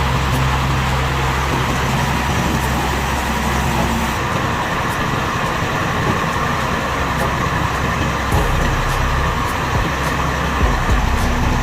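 Motor vehicle engines running. A steady low engine hum drops away about four seconds in, leaving a broad rumble, and the hum returns near the end.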